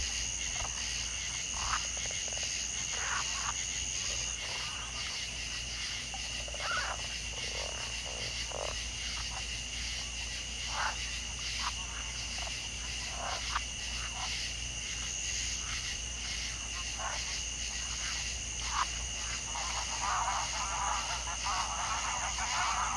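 Frogs croaking in short, scattered calls over a steady high-pitched insect chorus; the croaks thicken into a dense burst of calling near the end.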